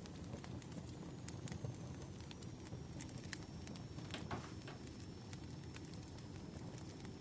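Firewood burning: a steady low rumble with scattered sharp crackles and pops throughout.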